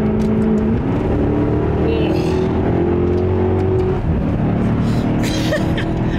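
Maserati GranTurismo S's 4.7-litre Ferrari-derived V8 heard from inside the cabin under acceleration. Its note climbs about a second in, then breaks briefly about four seconds in as the single-clutch F1 gearbox shifts, before pulling on.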